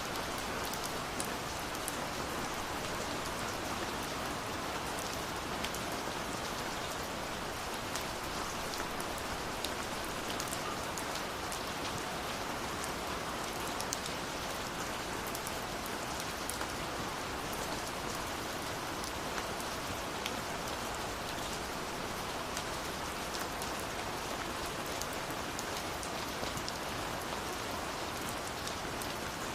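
Steady rush of a waterfall mixed with the small sharp pops and crackles of a wood fire.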